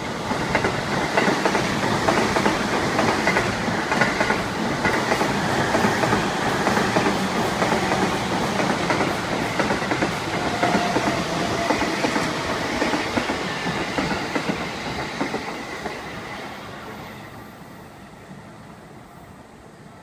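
JR East E233-series electric commuter train (Takasaki/Utsunomiya Line) running past on the adjacent track. Its running noise is loud for about fifteen seconds and then fades away over the next few seconds as the last car goes by.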